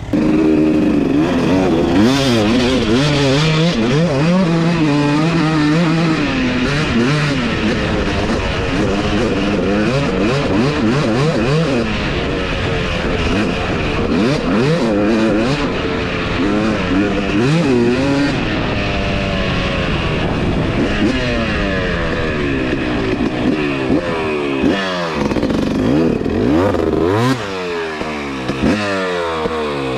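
Two-stroke dirt bike engine being ridden hard, its pitch climbing and dropping over and over as the rider revs through the gears and backs off, easing off a little near the end.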